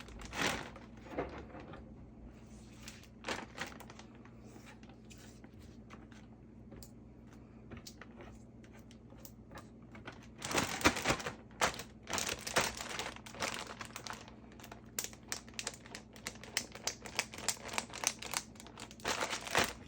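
Lettuce and its plastic packaging being handled and packed into a container: crinkling and rustling with light clicks and knocks. It is sparse at first and grows busier and louder about halfway through.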